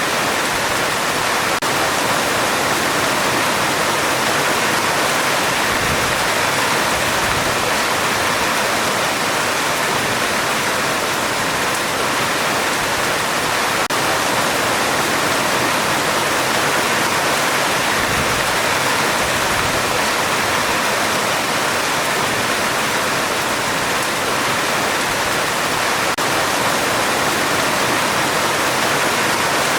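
Heavy rain falling steadily on a metal roof, a dense, even hiss with no letup.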